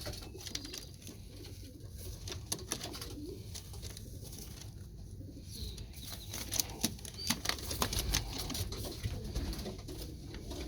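Domestic pigeons cooing in a loft, with scattered sharp clicks and rustles of birds moving about.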